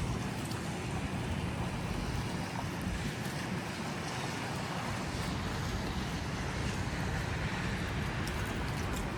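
Steady downtown street ambience in a snowfall: a low rumble of traffic with a hiss of wind.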